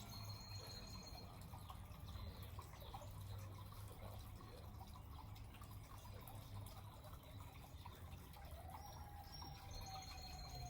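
Quiet room tone: a steady low hum with soft, scattered light ticks. In the last two seconds a faint tone slowly falls in pitch.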